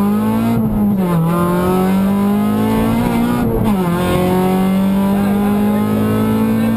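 In-car sound of a rally-prepared Honda Civic VTi's four-cylinder VTEC engine under hard acceleration: its pitch climbs and drops twice as the driver shifts up, about a second in and again about three and a half seconds in, then holds steady at high revs.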